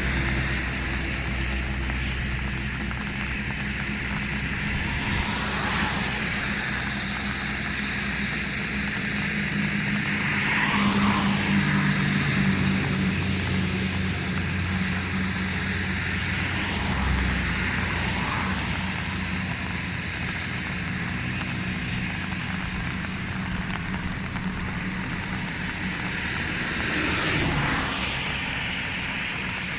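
A car's steady engine and road noise, with a louder swoosh rising and fading every several seconds.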